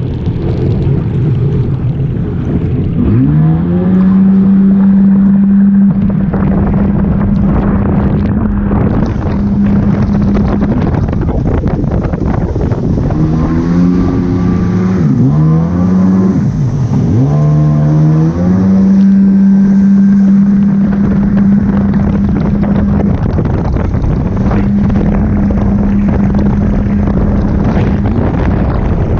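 Jet ski engine running at speed, with wind buffeting the microphone. It revs up about three seconds in and holds a steady high tone. In the middle the throttle eases off and picks up again twice before settling back to a steady run.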